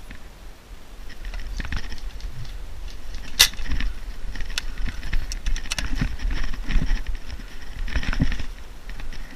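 Rustling and footfalls as a player moves through cover with airsoft gear, over a low rumble of wind and handling on the microphone. Several sharp clicks or snaps cut through, the loudest about three and a half seconds in.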